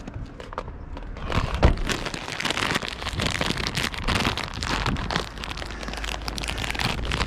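Irregular rustling and crackling handling noise, with a sharper knock about a second and a half in, over a low wind rumble on the microphone.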